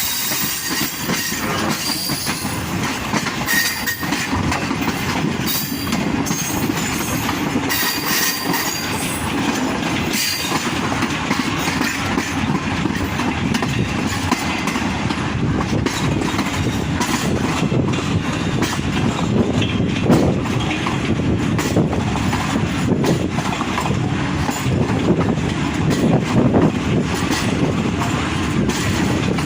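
Passenger train running along the track, its wheels clattering over the rail joints in a steady rumble, with brief faint squeals in the first ten seconds or so.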